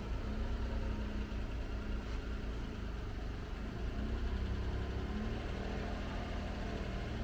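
Daihatsu Hijet kei truck's small engine running, its revs stepping up and down repeatedly as it works to tow a heavy car.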